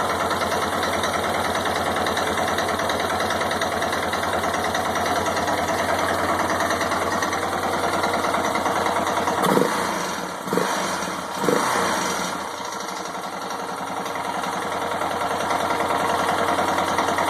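1990 Yamaha XT600's single-cylinder four-stroke engine idling steadily, with a lingering mechanical noise still audible after its low oil was topped up by a full quart. A few brief louder bumps come about halfway through.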